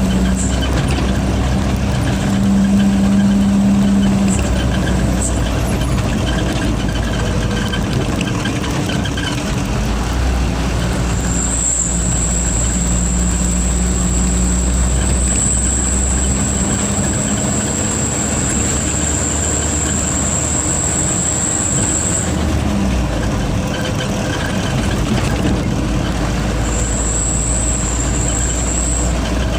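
Truck engine running steadily with a low drone. A high, thin turbocharger whistle comes in about eleven seconds in, holds for about ten seconds, and returns briefly near the end.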